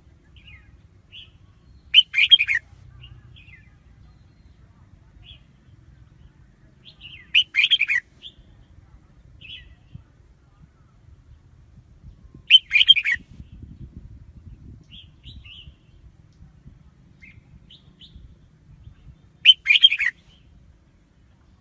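Red-whiskered bulbul singing: four short, loud song phrases spaced five to seven seconds apart, with faint short chirps between them.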